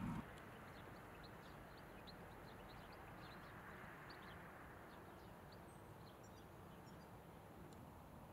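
Faint outdoor field ambience: a soft steady hiss with scattered short, high chirps of small birds calling. A louder low sound cuts off right at the start.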